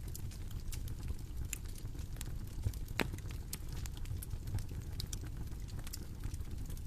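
Bonfire crackling: a steady low rumble of flame with irregular sharp pops and snaps, one louder snap about three seconds in.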